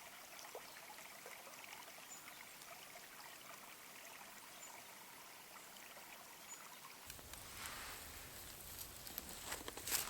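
Faint outdoor ambience, an even background hiss with a few brief high chirps. About seven seconds in it becomes fuller, and near the end come a run of small clicks and one sharp knock.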